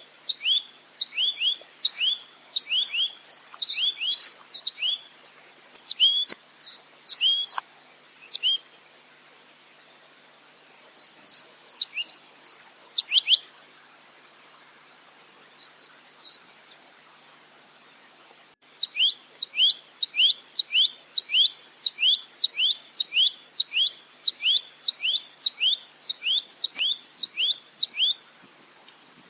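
Rambatan (nuthatch) calling in fast runs of short, down-swooping notes, about two or three a second. The calls break off for several seconds in the middle, leaving only a few scattered higher chirps, then a long, even run starts again.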